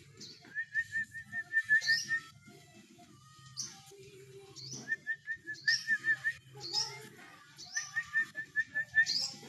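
Cililin bird song, a slow 'ngalun' style: three phrases about two seconds apart, each a quick run of about eight short whistled notes at one pitch, with higher rising whistles between the phrases. A low steady hum runs underneath.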